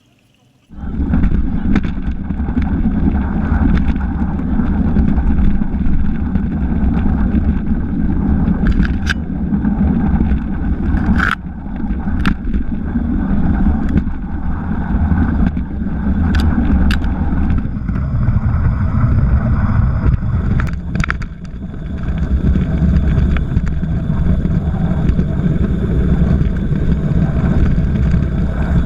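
Steady low rumble of a light railway train running, starting abruptly about a second in, with a few sharp clicks and knocks over it.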